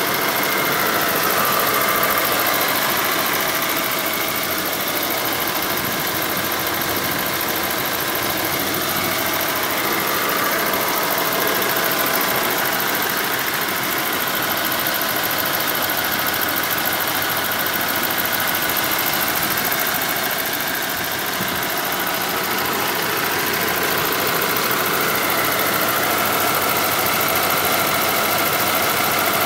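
Toyota 1UZ-FE 4.0-litre aluminium V8 idling steadily, heard from over the open engine bay.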